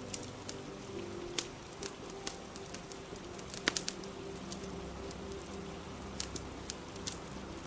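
Steady rain falling, with a crackling fire throwing sharp irregular pops, the loudest a quick cluster a little past halfway. Soft held musical tones sit low underneath.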